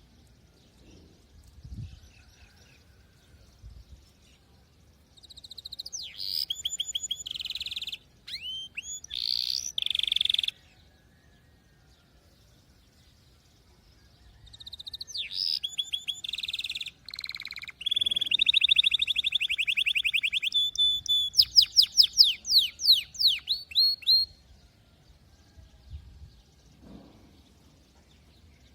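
Canary singing two long song phrases of rapid trills and repeated whistled notes, with quiet gaps between them. The second phrase moves from a very fast trill into a run of slower repeated sweeping notes.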